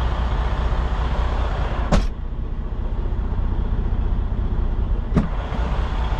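Semi tractor's diesel engine idling steadily, heard inside the cab, with two sharp clicks about two and five seconds in; the higher background noise drops away after the first click.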